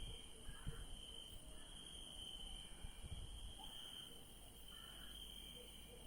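A night chorus of crickets trilling, a faint, steady high-pitched ring without a break. A few brief low thumps sound underneath it.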